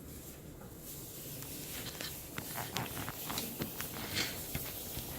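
Meal sounds at close range: a run of small clicks and taps from eating and handling food and cutlery, busier from about two seconds in.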